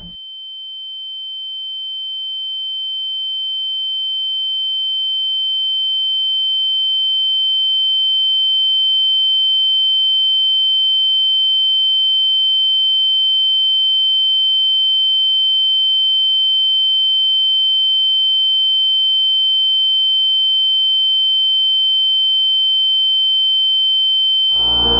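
A steady, high-pitched electronic sine tone with a fainter, lower tone beneath it, swelling in over the first several seconds and then holding level; the lower tone drops out near the end.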